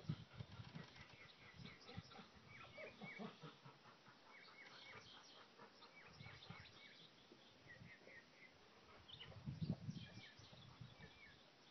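Near silence, with faint bird chirps scattered throughout and irregular low rumbling bursts, loudest about nine to ten seconds in.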